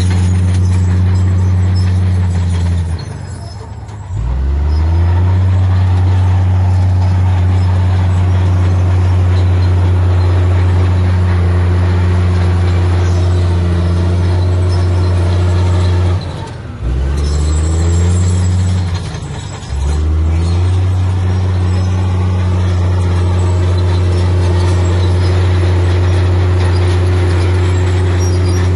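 Heavy diesel engine of earthmoving machinery running steadily under load. Three times its revs sag and the note falls, then it climbs back up.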